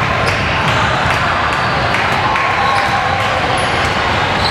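A basketball bouncing on the court during a game, among a steady din of players' footsteps and spectators' voices.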